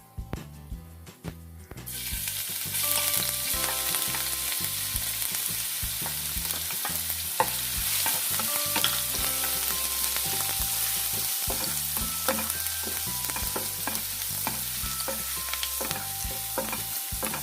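Crushed ginger and garlic dropped into hot oil with whole spices: a sudden loud sizzle about two seconds in that carries on steadily, with a spatula clicking and scraping against the pan as it is stirred.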